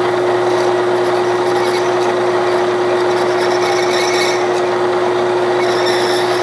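1967/68 Clausing Colchester 1340 metal lathe running steadily in low gear, with one constant tone. A faint scratching comes and goes as the cutting tool scribes a mark for the shoulder on the turning work.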